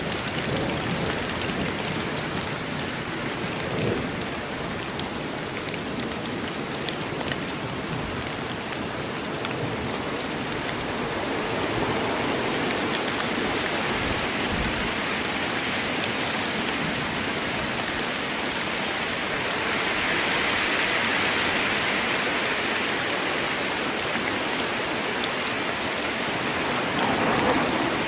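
Steady rain falling through a forest, a dense even hiss of drops that grows a little louder partway through.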